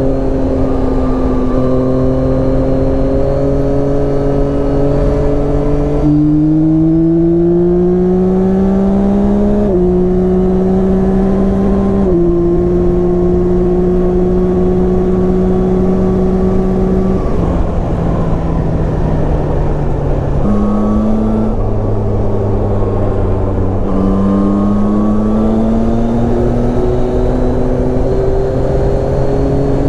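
Yamaha Tracer 9's three-cylinder engine running under way, with steady wind and road noise. The engine pitch climbs under throttle, drops in steps at a couple of upshifts, then falls off. About two-thirds of the way through it jumps up briefly at a downshift and then climbs again.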